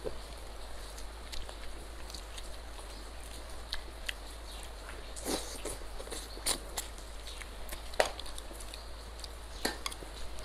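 Close-up mouth sounds of eating fatty braised pork: wet chewing and lip-smacks heard as scattered sharp clicks, the loudest about eight seconds in, over a low steady hum.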